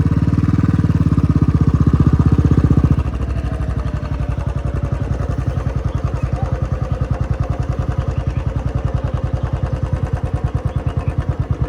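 Motor scooter engine running at low speed with an even pulsing beat, louder for the first three seconds and then easing to a steady, lower throttle.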